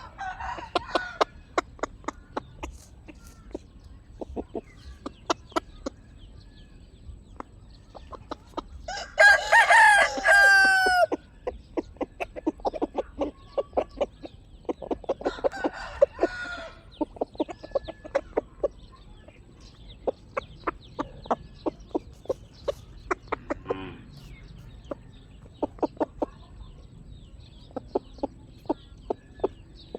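Chickens clucking in many short, sharp calls throughout, with a rooster crowing once, loudly, about nine seconds in.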